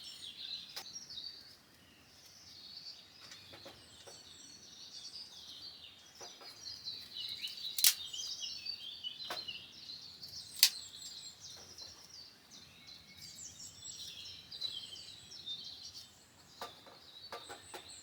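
Wild birds chirping and singing, with a few sharp clicks or knocks from camp handling, the two loudest about 8 and 10.5 seconds in.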